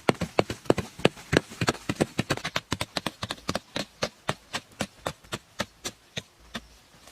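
A rapid, regular series of sharp knocks or strikes, about four a second, that fades and stops near the end.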